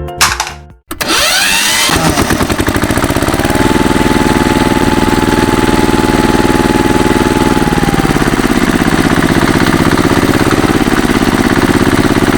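An engine starts up about a second in, then runs steadily with a rapid, even firing pulse. A faint whine holds for a few seconds in the middle and then falls away. The engine sound stops abruptly at the end.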